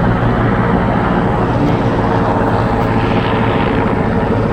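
Quadcopter drone's propellers humming steadily while it hovers near the microphone.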